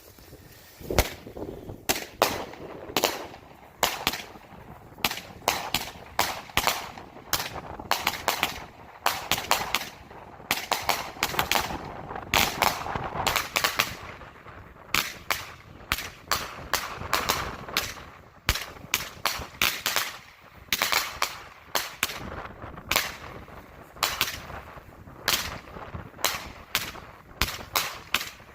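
200-gram consumer repeater fireworks cakes firing, a rapid run of sharp bangs, about one to two a second, from the shells launching and bursting overhead.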